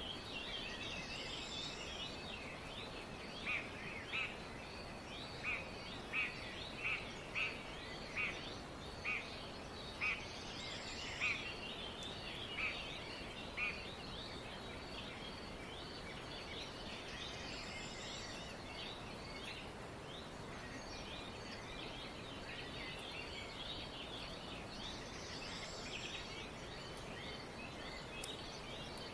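Several wild birds calling over a steady hiss of background noise. About three seconds in comes a run of a dozen loud, short, evenly spaced calls, roughly one every 0.7 s, which stops about halfway through.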